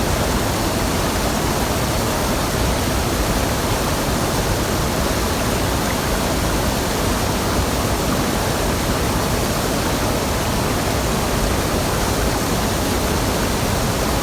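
Waterfall on a mountain stream, water rushing in a loud, steady roar of white noise.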